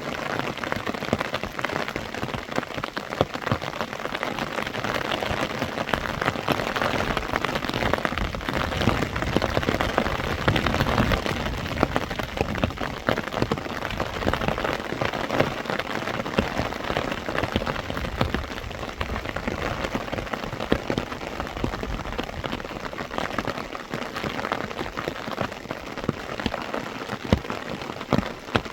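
Steady heavy rain, a dense patter of many drops that keeps on without a break.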